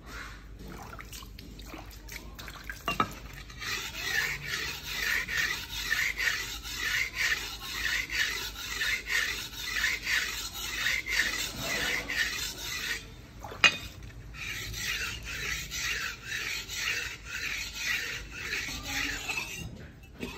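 Steel knife blade forged from a bearing ball being worked by hand against an abrasive, rhythmic back-and-forth strokes about two a second that hone its edge. The strokes stop for a moment with a single sharp click, then carry on.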